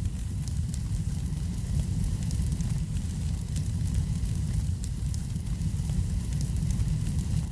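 Wood fire burning in a fireplace: a steady low rumble of the flames, with many small faint crackles and pops over it.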